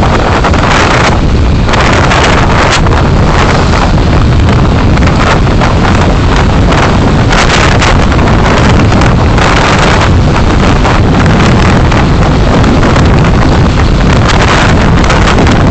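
Loud, steady wind and road noise from a vehicle on the move, buffeting the dashcam microphone.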